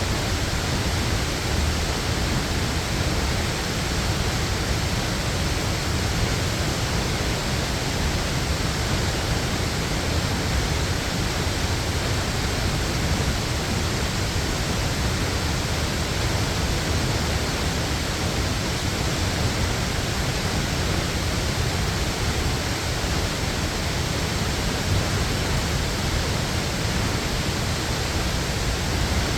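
Waterfall: water falling in a steady, unbroken rush with a strong low rumble underneath.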